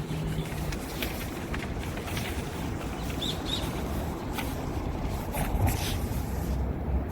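Steady outdoor background noise with a low hum, and a few faint bird chirps about three seconds in.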